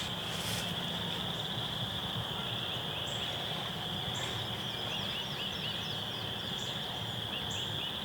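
A steady, high-pitched frog chorus, with short rising peeps in quick groups of three or four repeating throughout.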